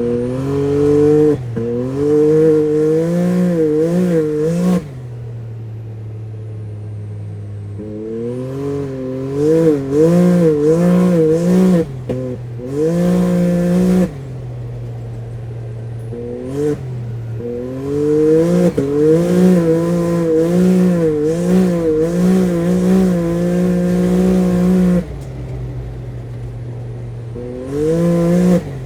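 Can-Am Maverick X3 Turbo RR's turbocharged three-cylinder engine, with an RPM slip-on dump-valve exhaust, revved in runs of quick throttle blips. It drops back to a steady idle three times between runs.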